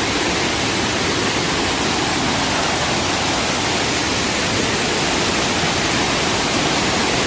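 Waterfall in heavy flow: a loud, steady rush of falling water, the stream swollen by recent heavy rain.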